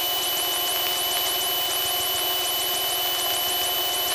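Steady in-flight drone of a Piper Tomahawk's engine heard through the cockpit intercom, with a thin steady high whine and faint rapid electronic chirping over it.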